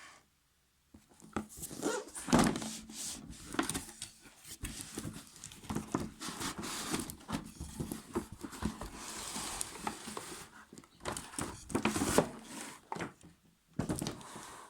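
Irregular handling noise: crinkling and rustling with scattered sharp knocks and clicks, starting about a second in.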